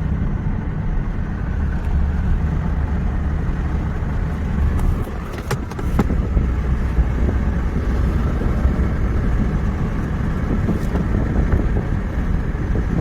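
Car being driven: steady low engine and road rumble, with a couple of sharp clicks about five and a half seconds in.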